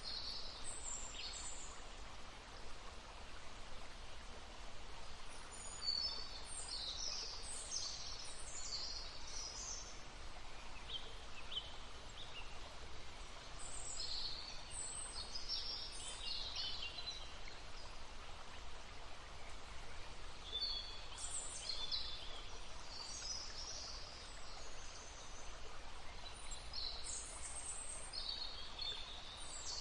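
Songbirds singing in short bright phrases of chirps and trills, coming and going, over the steady babble of a brook.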